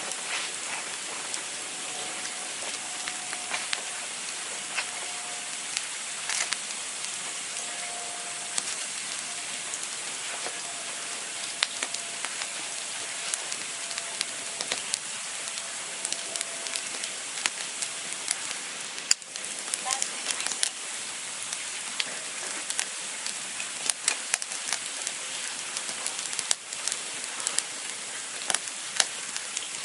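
Campfire burning with a steady hiss and frequent sharp crackles and pops from the burning wood, the pops louder and more frequent in the second half. A faint wavering whistle runs through the first half.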